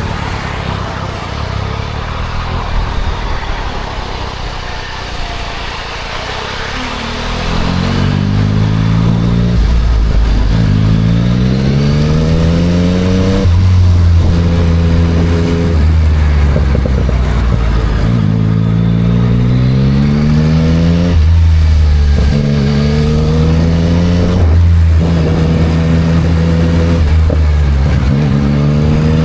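Yamaha MT-09 SP's three-cylinder engine through a Spark full exhaust, heard on the move. After a quieter, hissy first few seconds it pulls up through two gears with a rising pitch, then runs at a steadier speed with short breaks for gear changes and small throttle rises.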